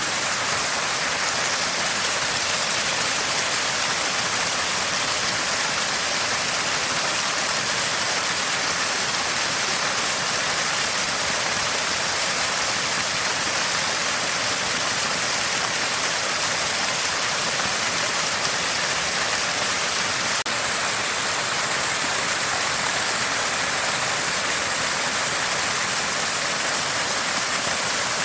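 Water gushing and gurgling steadily from a small spring, an even splashing rush.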